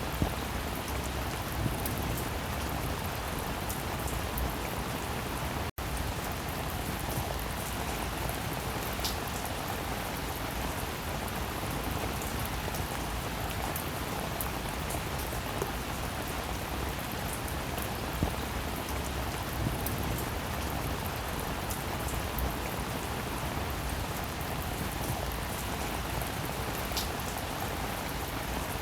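Steady rainfall with sharp individual drop clicks scattered through it. The sound cuts out for a split second about six seconds in.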